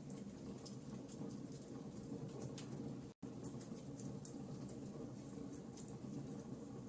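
Wood fire burning in a fireplace: a steady low rumble with scattered small crackles and pops. The sound cuts out completely for a split second about three seconds in.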